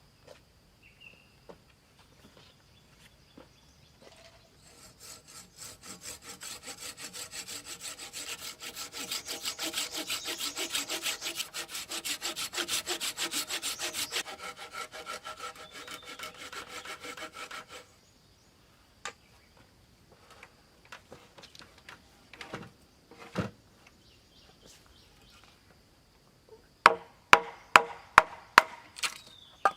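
A hand saw cutting through wood in fast, even back-and-forth strokes for about thirteen seconds, then stopping. Near the end come a few sharp knocks, then a quick run of about seven hard knocks of wood being chopped.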